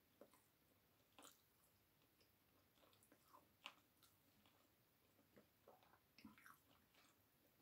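Faint chewing and mouth sounds of a person eating chicken wings and rice with her fingers, with scattered soft clicks and smacks, the sharpest about three and a half seconds in.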